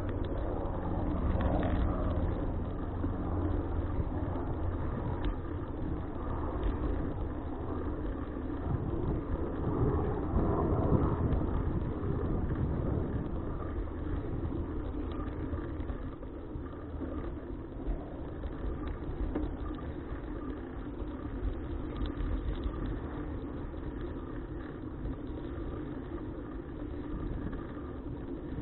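Wind rumble and road noise picked up by a bicycle-mounted action camera while riding, swelling louder for a few seconds around a third of the way in.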